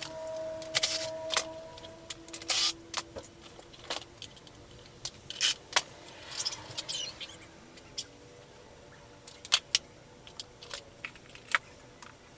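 Metal hand tools and parts clinking: scattered sharp clicks and clanks at irregular intervals, the loudest about a second in, between two and three seconds in, at five and a half seconds, and near ten seconds.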